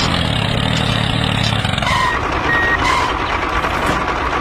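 A motor running with a steady hum, and two short high electronic beeps about two seconds in, like a reversing alarm.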